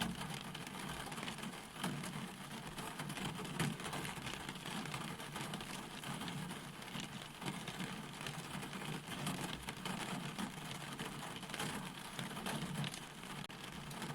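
Steady rain falling, with many separate drop hits heard as short clicks over an even hiss.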